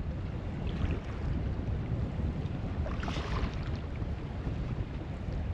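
Wind buffeting the microphone with a steady low rumble, and water moving around a kayak; a brief hiss rises about three seconds in.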